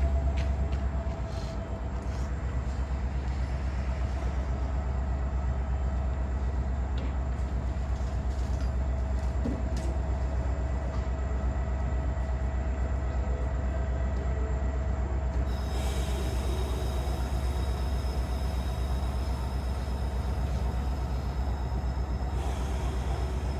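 Metra commuter train's diesel locomotive running steadily, a low drone with a faint whine over it. A higher whine joins about two-thirds of the way in and drops out shortly before the end.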